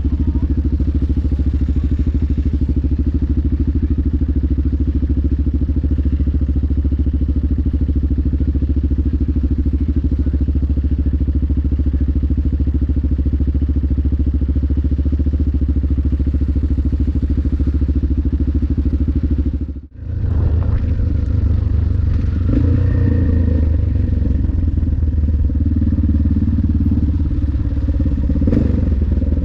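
Yamaha XT600's air-cooled single-cylinder four-stroke engine running steadily. About twenty seconds in it cuts out for a moment, then comes back with a more uneven, varying note.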